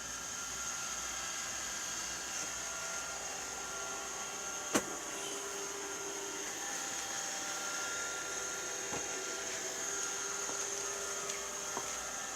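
Robot vacuum cleaner running with a steady whirr and a high whine, with one sharp knock about five seconds in and a couple of faint clicks later.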